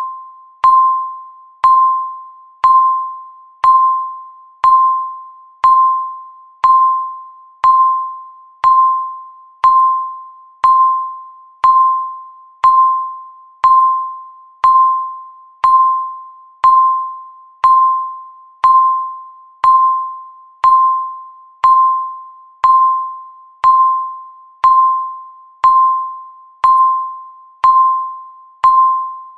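Countdown timer's ticking sound: a short, sharp tick with a bell-like ring, about once a second, steady and even, each tick fading quickly.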